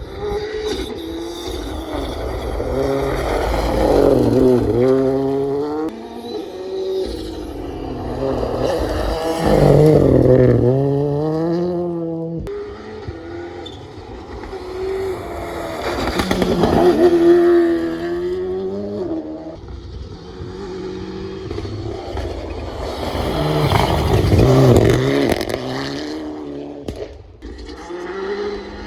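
Rally cars passing at speed on a forest stage, engines revving hard, pitch rising and dropping through gear changes. There are four loud passes about six to seven seconds apart.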